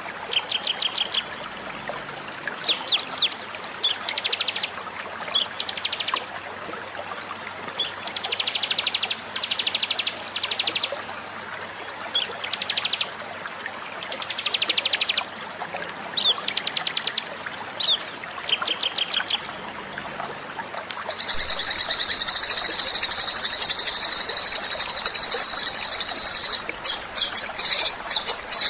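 Recorded songbird song for a masteran (birdsong tutoring) track, over a steady hiss. Short bursts of rapid, high trills and chirps come every second or two. About three-quarters of the way in, a long unbroken high trill lasts about five seconds and gives way to quick chattering.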